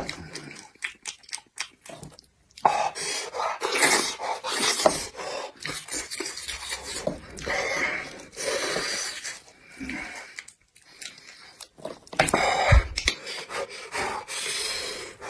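Close-miked chewing, smacking and slurping of soft, gelatinous beef trotter, in irregular wet bursts with small clicks.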